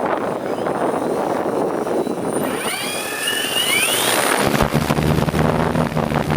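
Large hexacopter with big 29-inch propellers running in gusty wind. Partway through, several motor whines glide upward; about four and a half seconds in, a low steady hum starts abruptly.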